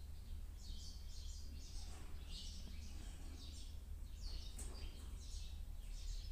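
Small birds chirping in repeated short bursts over a steady low hum, with a single sharp click about four and a half seconds in.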